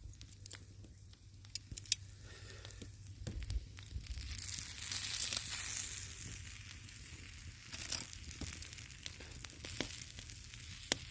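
Cooked chicken being torn open by hand to check whether it is done through to the bone, with sharp crackles and a hissing sizzle that swells about four to six seconds in.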